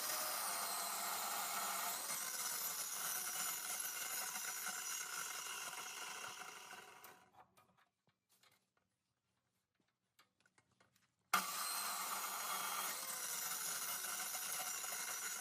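A power tool working on material, with a dense, hissy sound and a slowly falling tone. It fades out about seven seconds in, and after about four seconds of quiet it starts again abruptly.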